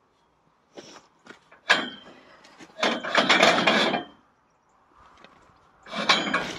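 A few light knocks, then a sharp clink with a ringing note and about a second of rattling clatter. Near the end comes another loud burst of the same kind.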